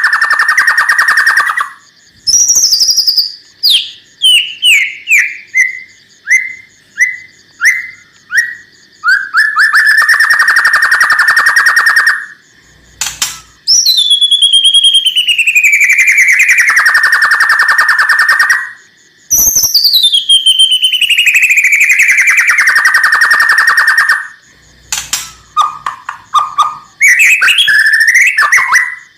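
White-rumped shama (murai batu) singing harsh, rattling 'kretekan' phrases: long grating notes of about two seconds each that slide down in pitch. Between them comes a run of short falling chips, and quick varied notes follow near the end.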